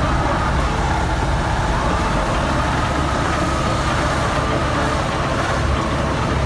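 Heavy truck engine running hard under load, a steady rumble with its pitch rising and falling a little.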